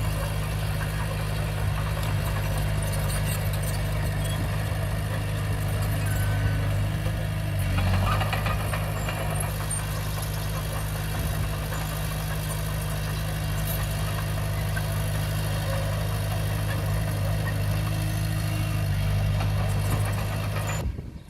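Komatsu D20P bulldozer's diesel engine running with a steady low drone, swelling briefly about eight seconds in.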